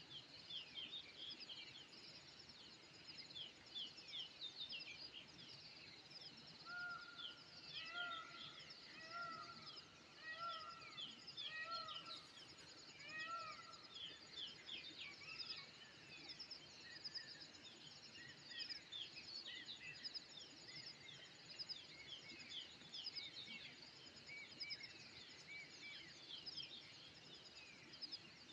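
A chorus of many small birds chirping and twittering in short, quick notes throughout. From about seven seconds in, one lower call repeats about once a second for several seconds.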